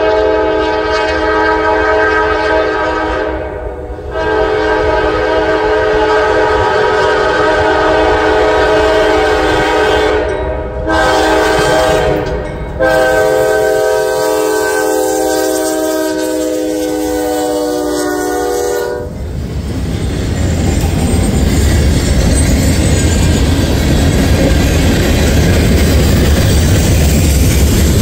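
Norfolk Southern freight locomotive's air horn sounding the grade-crossing signal: two long blasts, a short one and a final long one, the chord sagging slightly just before it cuts off. Then the locomotives and cars pass close by, a loud steady rumble with clickety-clack of wheels over rail joints.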